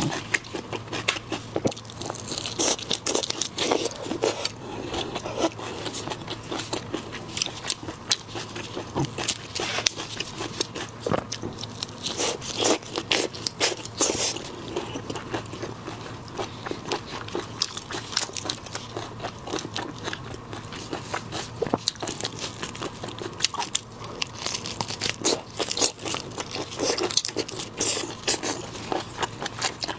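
Close-up eating sounds of seafood, mainly shrimp: irregular crunching, biting and chewing, with crackling clicks from shells and a few louder crunches.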